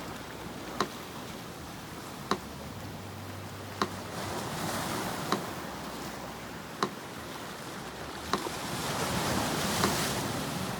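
Metronome ticking slowly and evenly, one sharp click about every one and a half seconds, over the steady wash of sea surf that swells twice, once near the middle and again near the end.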